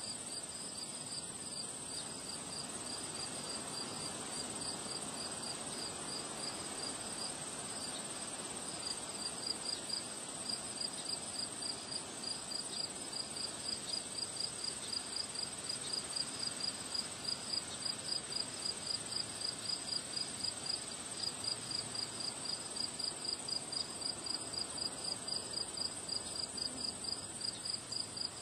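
Crickets chirping: a steady high-pitched trill alongside regular chirps, a few a second, which grow stronger about ten seconds in. Wind rushes underneath.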